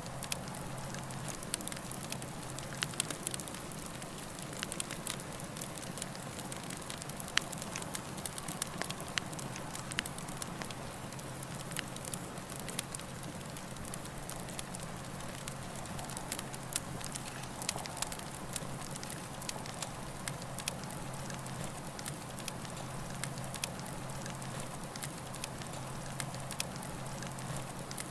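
Campfire burning, a steady hiss with frequent small crackles and pops scattered throughout.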